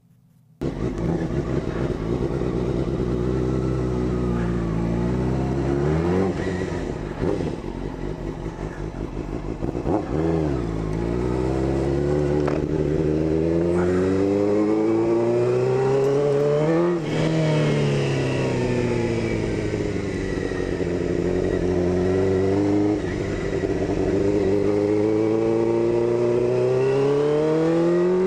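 Suzuki GSX-R600 sports bike's inline-four engine revving up and down while riding: the pitch climbs repeatedly and drops sharply at each gear change.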